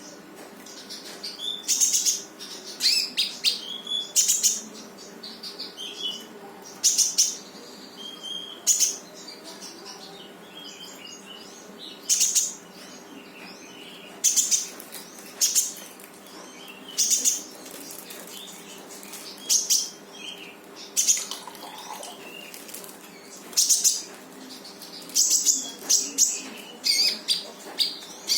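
A konin songbird singing in short, sharp high-pitched bursts, one every second or two. These are the rapid "tembakan" phrases of a bird in full song (gacor).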